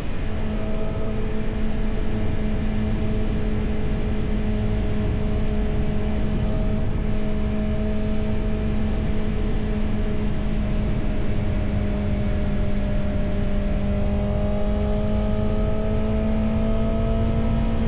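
Honda CB650R inline-four engine running at a steady cruise under way, its note dropping slightly at the start, holding nearly level, then climbing slowly over the last few seconds. A steady low rush of wind and road noise runs beneath it.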